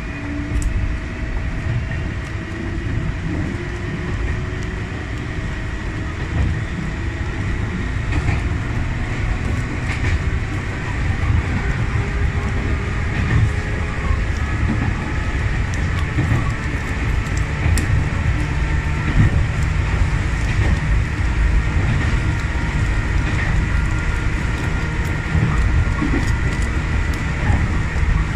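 Sangi Railway 801-series electric train running along the line, heard from inside the driver's cab: a steady low rumble of wheels on rail with a thin steady whine and occasional faint clicks from the track, growing a little louder over the stretch.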